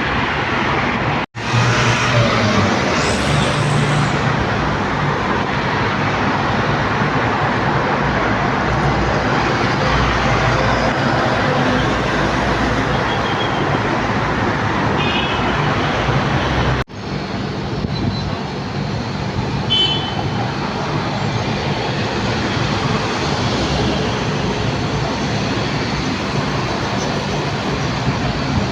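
Steady, loud engine rumble with a hiss, broken by two brief, sudden dropouts in the audio.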